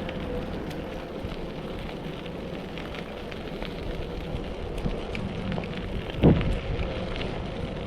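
Electric bicycle being ridden: tyres crackling over a rough surface with a thin steady whine throughout, and a single thump about six seconds in.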